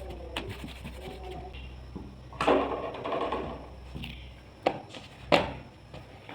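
Household handling noise: a rough scrape lasting about a second, then two sharp knocks, over a low steady hum.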